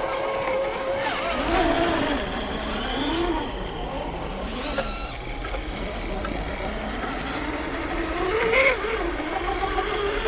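Electric motor and gearbox of an RC scale crawler truck whining, the pitch rising and falling with the throttle. There are two short, higher whines about three and four and a half seconds in.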